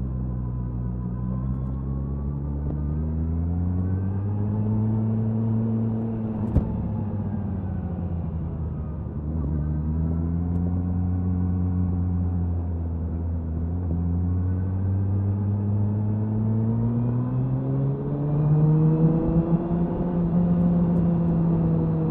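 Suzuki Hayabusa's inline-four exhaust at speed, picked up near the tail of the bike, rising and falling in pitch several times as the rider opens and closes the throttle, loudest about 19 seconds in. A sharp click about six seconds in.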